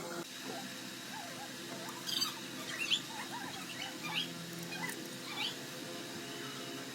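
An engine running steadily, with short, high chirps or squeaks scattered over it.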